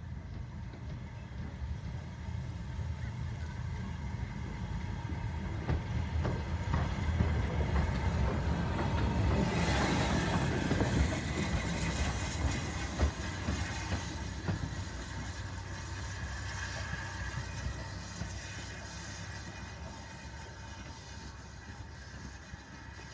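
Steam locomotive 41312, an Ivatt Class 2MT 2-6-2T tank engine, running light engine past the listener. The rumble builds to its loudest about ten seconds in, with scattered clicks from the wheels on the rails, then fades away.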